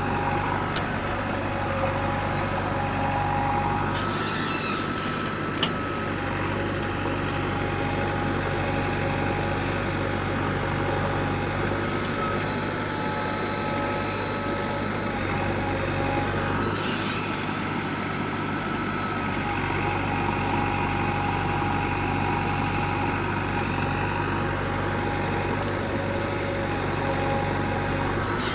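Heavy diesel engine running steadily at idle, with a few short hisses.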